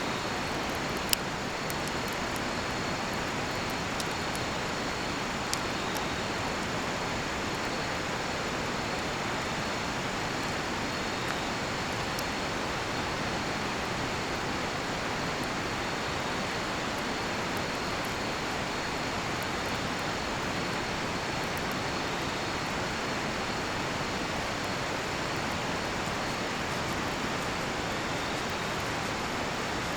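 Steady rushing of a nearby river, with faint steady insect song and a few sharp crackles from a cedar-wood campfire, the loudest about a second in.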